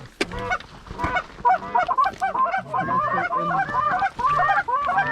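Canada goose honks and clucks: many short, rapid, overlapping notes that start about a second and a half in and grow denser.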